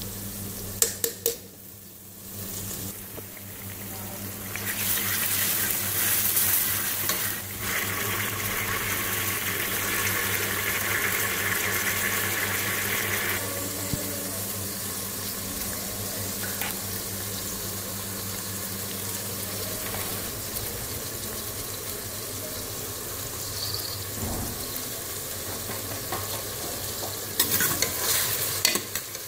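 Onions and chicken frying in hot oil in an aluminium pressure cooker, sizzling steadily, louder from about five seconds in. A steel spoon stirs the pan and clinks against the pot a few times about a second in and again near the end.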